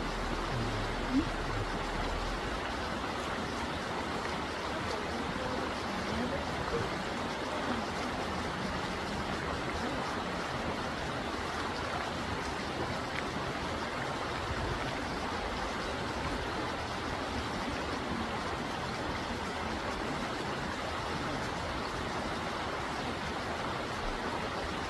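Steady rushing of a shallow mountain stream.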